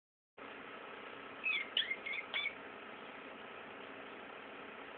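Pet European starling giving four short, high chirps in quick succession about one and a half seconds in, over a steady faint hiss.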